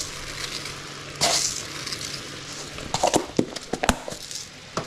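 A utensil stirring chicken stew in a pot, scraping once about a second in and knocking against the pot several times near the end, with a faint steady low hum underneath.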